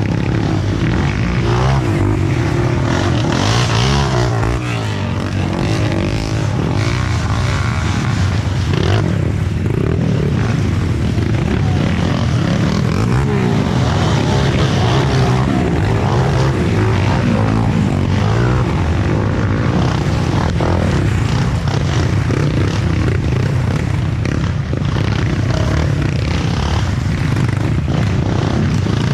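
Trail motorcycle engines running and revving without a break, the pitch rising and falling.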